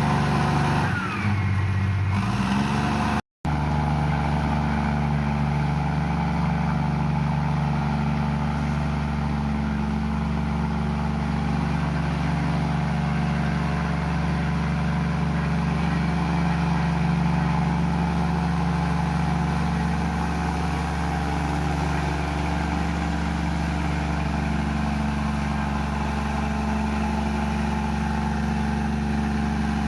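Komatsu bulldozer's diesel engine running steadily, with a split-second dropout about three seconds in.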